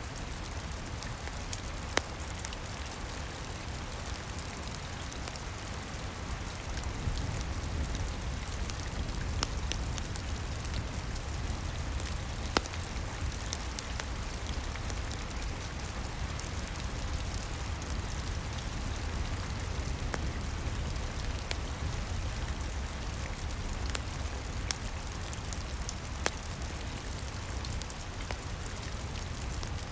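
Steady rain with a low rumble underneath, and now and then a single sharp crackle from a wood fire.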